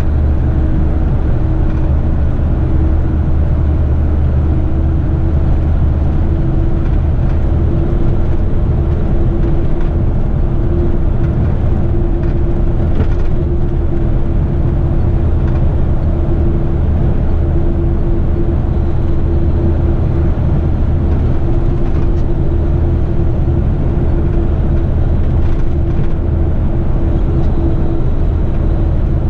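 Heavy rigid truck's diesel engine running at a steady speed, a constant low drone with a steady hum above it.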